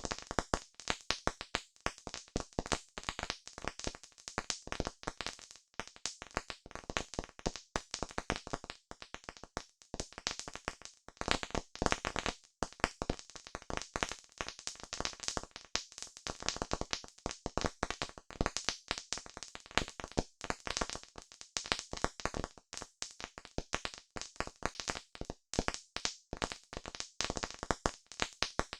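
Wood campfire crackling: a dense, irregular run of sharp pops and snaps that never lets up.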